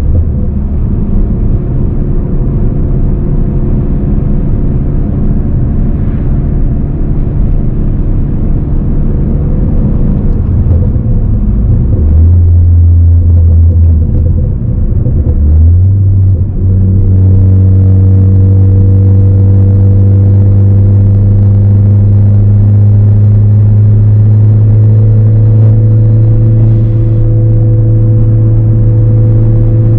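Turbocharged 2.0-litre four-cylinder of a 2018 Ford Focus ST with an aftermarket Roush exhaust, droning loudly under way. Its pitch changes about halfway through, then holds as a steady drone that rises slowly.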